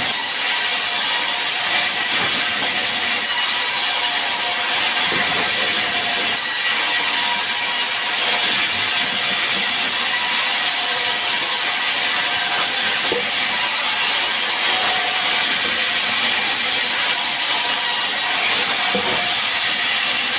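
Sawmill saw cutting sengon wood, a steady, unbroken hissing noise.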